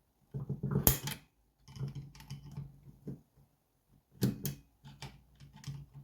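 Metal tools clicking and scraping against engine parts in irregular bursts as a stubborn circlip is worked at, with one sharp click about a second in.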